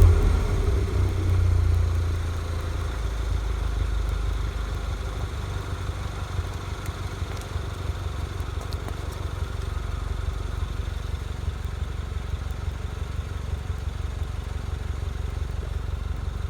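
Citroën DS3 Racing's turbocharged 1.6 THP four-cylinder with a carbon intake kit, dropping back from a rev to idle: the engine settles over the first couple of seconds, then idles steadily.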